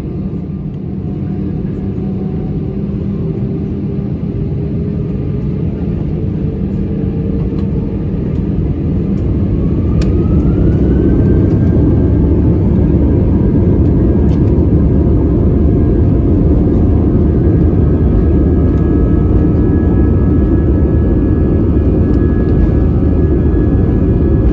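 Airbus A320-200 jet engines heard from inside the cabin, spooling up. Whining tones rise in pitch over a steady low rumble, and the sound grows louder about ten seconds in, then holds at the higher level, as when thrust is set for the takeoff roll.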